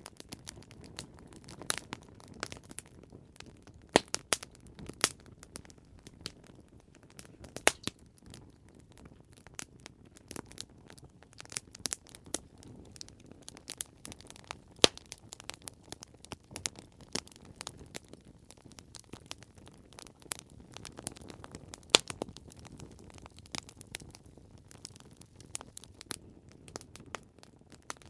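Campfire burning with irregular sharp crackles and pops, a few much louder snaps standing out, over a low steady rumble of the flames.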